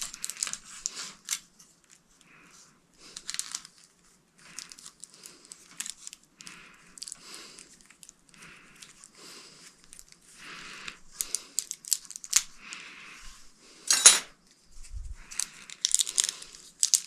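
Intermittent rustling and crinkling from handling material such as paper or plastic, with one sharp click about 14 seconds in.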